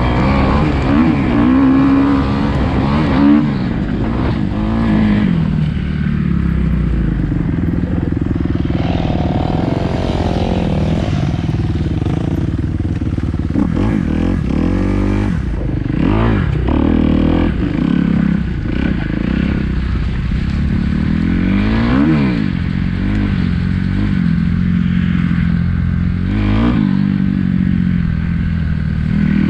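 Kawasaki KX250F dirt bike's single-cylinder four-stroke engine running and revving up and down over and over, with quick throttle blips.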